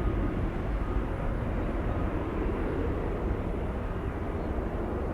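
Jet airliner engine noise outdoors, a steady rushing sound that slowly fades, with wind rumbling on the microphone.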